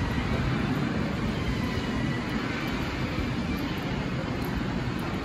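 Steady, even hum and rush of a Seibu 30000 series electric train standing at the platform with its doors open, with no distinct events.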